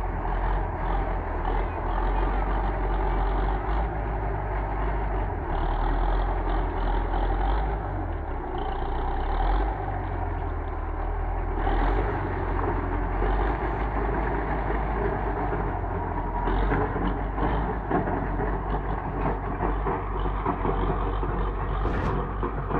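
DT-75 crawler tractor's diesel engine running steadily under load.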